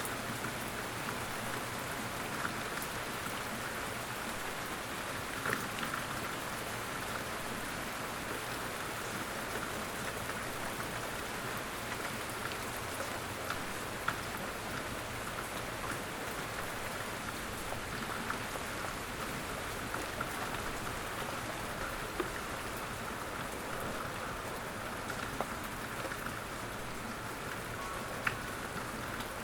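Steady rainfall: an even hiss of rain with scattered louder single drop taps.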